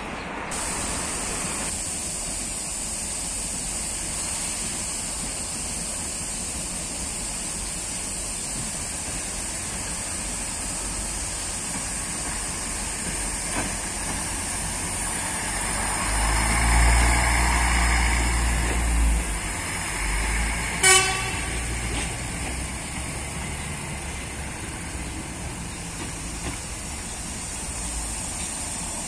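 Trains moving through a rail yard: a low rumble of a train swells and fades about halfway through, then a train horn gives one short toot.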